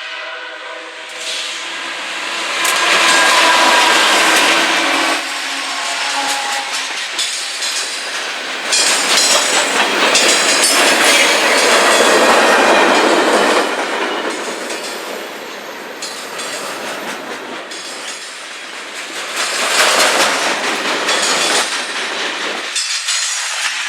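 A train rolling past, its wheels clattering over the rails, with the tail of its horn dying away in the first second.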